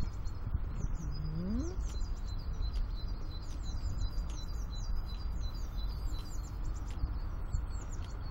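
Small songbirds chirping over and over, quick high chirps that slide downward, on top of a steady low rumble.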